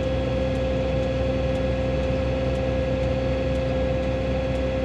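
John Deere tractor engine running at raised throttle, heard from inside the cab as a steady hum with a strong whine, while the hydraulics slowly swing the sprayer booms out. The operator suspects a weak solenoid for the slow swing. A faint tick comes about once a second.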